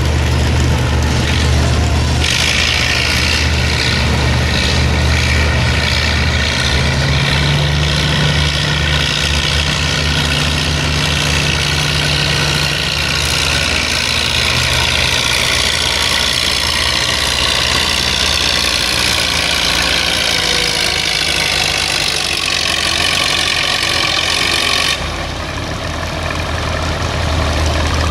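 Modified pulling tractor running hard at high revs under load for about twenty seconds, then suddenly dropping off as the throttle is cut near the end, with a steady low engine drone underneath throughout.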